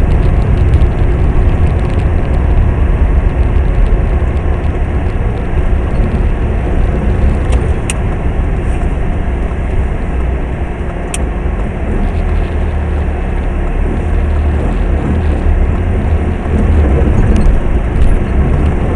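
Steady low rumble of a moving car's road and engine noise heard from inside the cabin, with two faint clicks, about eight and eleven seconds in.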